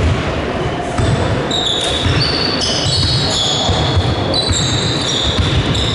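A basketball bouncing on a gym floor in play, thumping roughly once a second, with many short high squeaks from sneakers on the court over a steady crowd murmur.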